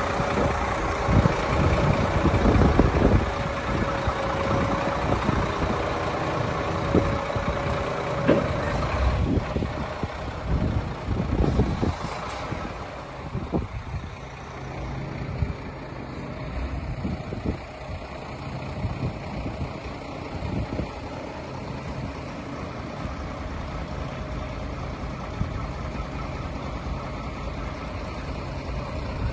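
Iveco Trakker 380 truck's diesel engine running at idle. A steady whine rides over it for about the first eight seconds, with scattered knocks through the first half, and then the idle carries on quieter and steady.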